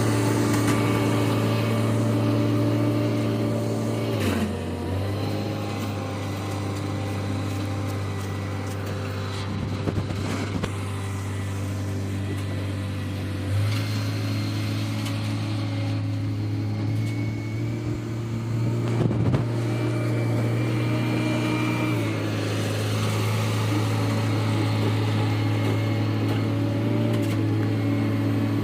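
The diesel engine of the vehicle towing an engineless truck, running at a steady speed that drops and rises in steps a few times. A couple of short knocks are heard along the way.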